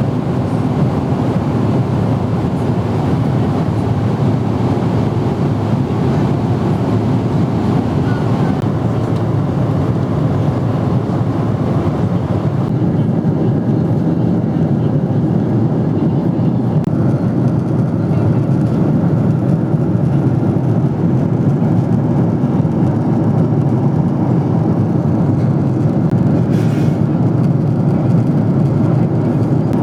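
Steady low roar of airflow and engines inside the passenger cabin of a Boeing 777-300ER in flight. The upper hiss thins a little about 13 seconds in.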